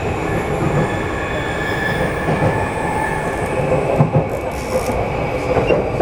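JR E235-1000 series electric train running, heard from inside the passenger car: a steady rumble of wheels and running gear with thin high tones over it and a few short louder knocks.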